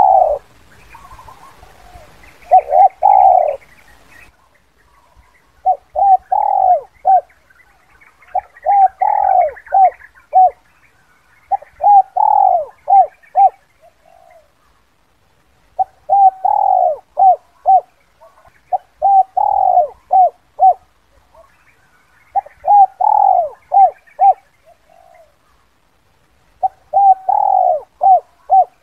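Spotted dove cooing: about eight phrases, each a quick series of several coos, repeated roughly every three seconds with short pauses between. This is the dove's advertising call, used here as a lure call to draw wild spotted doves in.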